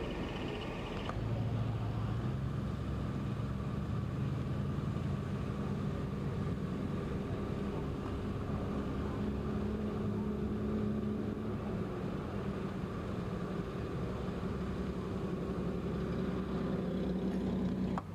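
A car engine idling steadily, a low even hum. The sound changes about a second in.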